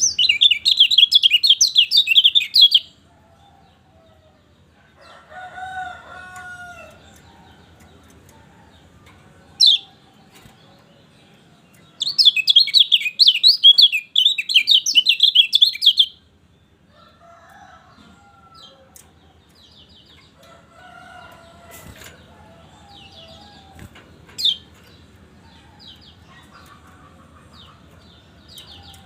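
A kecial kuning songbird singing a rapid, high twittering song in two loud bursts, about three seconds at the start and about four seconds in the middle. Single sharp chips and softer, lower calls fall in between.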